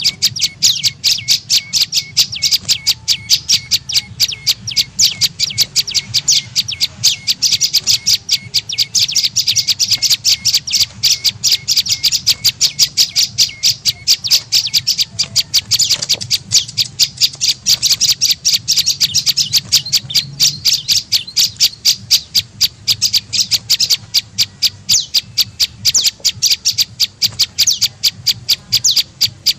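Prenjak lumut bird lure call: a fast, unbroken run of sharp, high chirps repeated at an even rapid pace, played as a trapping call to draw in wild prenjak.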